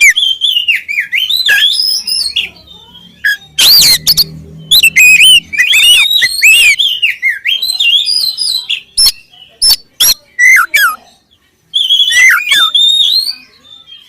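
Oriental magpie-robin (kacer) singing loudly: quick, varied whistled phrases gliding up and down, broken by short pauses and mixed with sharp clicking notes.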